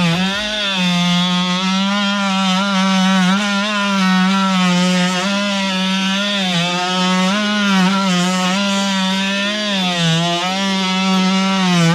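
WORX WX696 oscillating multi-tool running with its blade cutting into firewood: a steady buzzing hum whose pitch sags briefly and recovers every few seconds as the blade bites into the wood.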